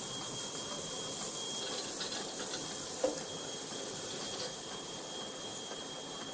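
Touchless automatic car wash spraying water, a steady hiss with a thin high whine running through it and one short click about three seconds in.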